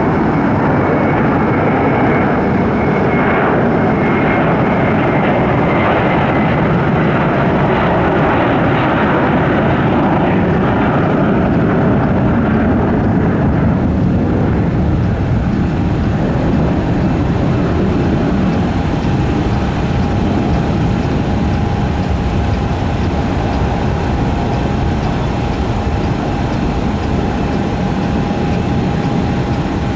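Airbus A321 jet engines at take-off thrust: a loud, steady roar with a high whine that fades within the first several seconds. The roar slowly dulls as the aircraft climbs away, and a steady hum comes in about two-thirds of the way through.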